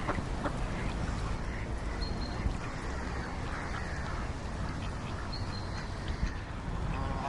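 Ducks quacking now and then over a steady low background rumble, with a few short high notes in between.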